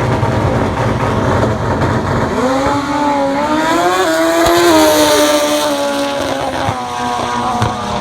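Racing motorcycle engine at high revs going by, after a low rumble in the first couple of seconds; its pitch climbs for about two seconds, then eases off slowly.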